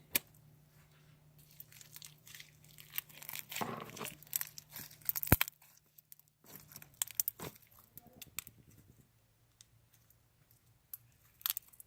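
Homemade slime being handled, squished and stretched by hand, making irregular faint crackles and small pops, with one sharp click about five seconds in.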